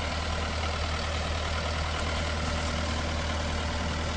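An engine idling steadily: a constant low hum with no change in speed.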